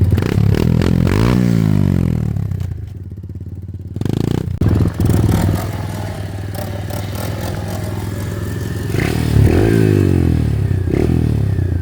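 Straight-piped 125 cc dirt bike engine running and revving. The pitch sweeps up and back down about a second in and again near the end, with quieter, lower running between.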